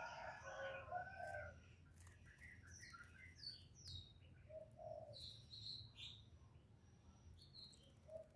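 Faint bird calls: scattered short, high chirps, with a few lower calls near the start, about halfway through and at the end.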